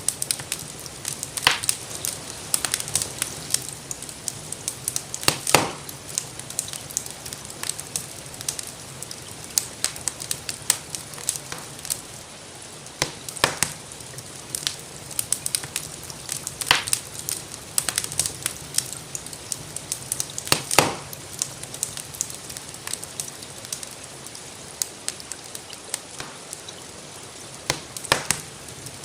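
Wood fire crackling, with steady sharp snaps and a handful of louder pops, over a soft steady hiss of rain.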